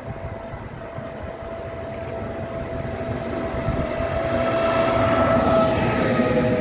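E464 electric locomotive hauling a train of double-deck coaches, approaching and passing: wheel-on-rail rumble with a steady electric whine, both growing louder. The whine drops in pitch as the locomotive goes by, about five to six seconds in.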